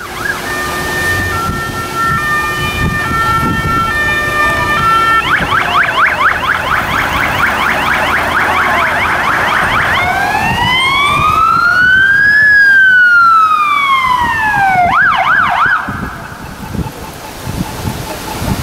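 Fire engine sirens: first stepped two-tone sounding, then a fast yelp of quick rising sweeps for about five seconds, then a slow wail that rises and falls once, a few quick sweeps, and the siren cuts off a few seconds before the end, leaving road and engine noise.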